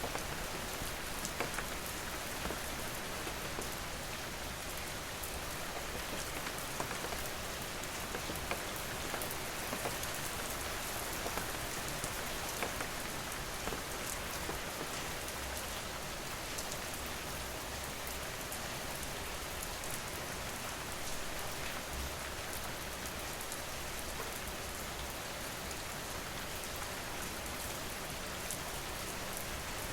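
Steady rain falling, a dense even hiss with the sharp ticks of individual drops hitting a surface.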